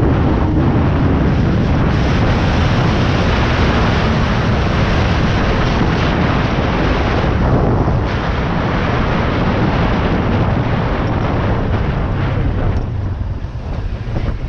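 Heavy wind rush over the microphone while riding a Suzuki GSX250R motorcycle, with the bike's parallel-twin engine running underneath. It eases somewhat about 13 seconds in.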